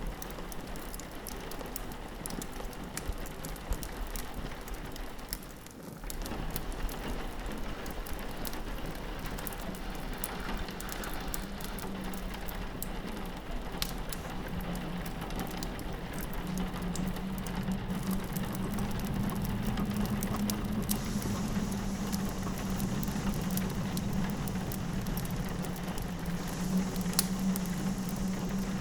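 Rain pattering steadily on a window mixed with a crackling wood fire, scattered sharp pops over a constant hiss. A low steady rumble underneath grows louder about halfway through.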